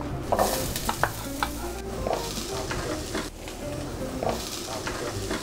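Cut Chinese kale (gai lan) stems sizzling in hot oil in a wok with slices of ginger and garlic, a steady frying hiss that comes up as the stems go in.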